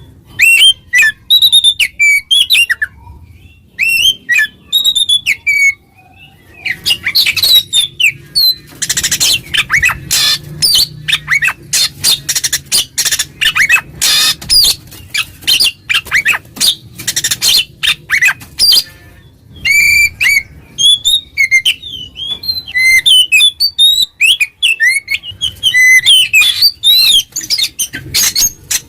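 Oriental magpie-robin (kacer) in loud, full song: fast runs of whistled gliding notes mixed with harsh, scratchy chatter, broken by a few short pauses. It is a challenge song that calls out and riles rival males.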